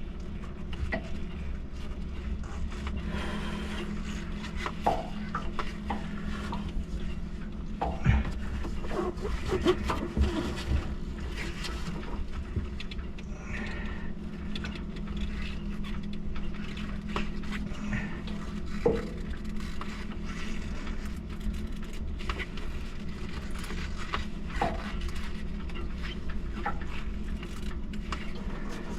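A steady low mechanical hum, with scattered knocks, scrapes and clatter of gear being handled over it.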